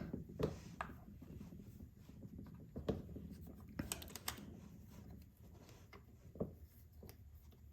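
Faint handling noise from a chainsaw chain and bar being held and worked by hand: soft scraping with a few scattered sharp clicks.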